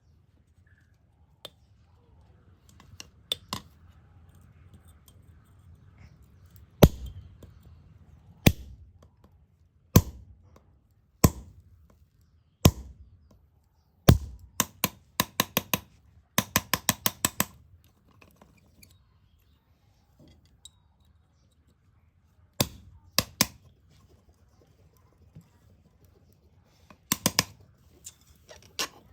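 Hammer striking metal. Single heavy blows come about a second and a half apart, then quick runs of lighter taps at about four or five a second, with pauses between.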